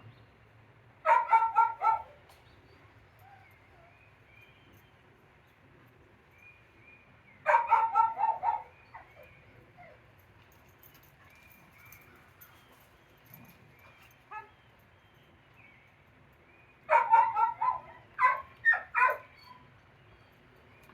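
A dog barking in three quick volleys of several sharp barks each: about a second in, near eight seconds, and again from about seventeen seconds. Faint bird chirps sound between the volleys.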